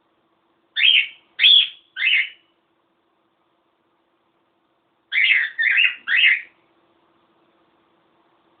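Cockatiel calling: two bursts of three short, loud chirps each, about a second in and again about five seconds in.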